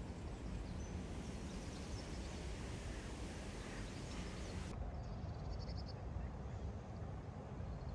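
Steady low ambient noise with a few faint bird chirps, about a second in and again around five seconds in.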